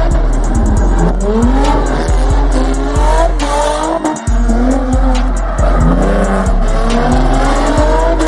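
Car tires squealing with the engine revving, the pitch wavering up and down, over heavy bass music; the sound briefly drops out about four seconds in.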